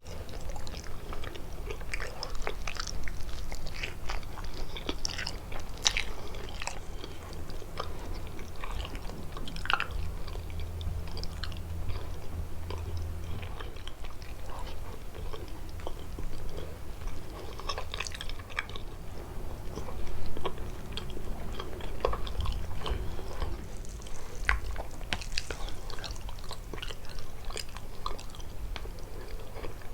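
Close-miked chewing and biting of kalaj, a Levantine pastry filled with walnuts and cheese: a steady stream of small wet clicks and crackles.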